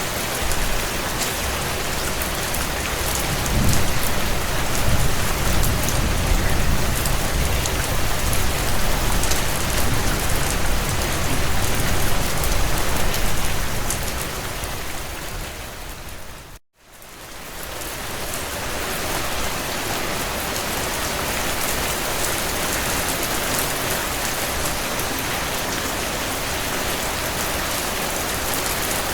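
Heavy rain pattering steadily on window panes, with a low rumble underneath for about the first half. About two-thirds of the way in the sound fades out to a moment of silence and fades back in, a loop point in the recording.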